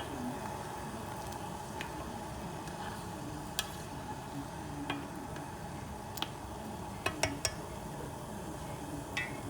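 Pot of water with pandan leaves heating on a stove, close to the boil: a steady hiss with scattered small pops and ticks.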